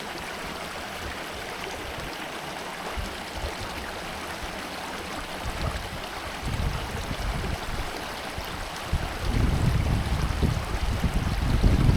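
Small mountain stream running over rocks, a steady rush of water. From about six seconds in, an uneven low rumble joins it and grows stronger near the end.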